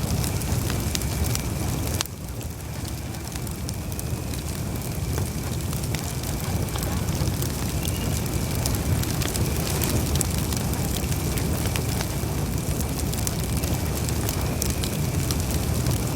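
Campfire burning, with a steady low rumble of flames and frequent small crackles and pops of burning wood. The fire drops in loudness about two seconds in, then slowly builds back.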